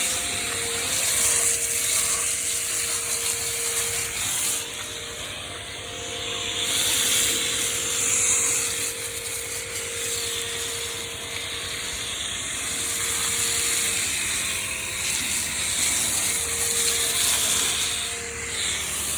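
Electric pressure washer running, a steady high hiss of spray with its motor tone stopping and restarting several times as the trigger is released and squeezed again.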